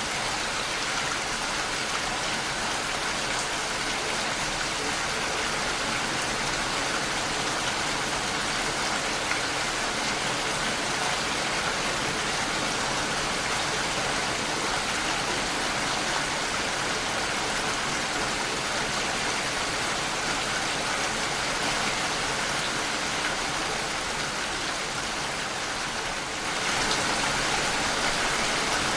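Steady rain falling against a window pane, an even hiss of drops that grows a little louder near the end.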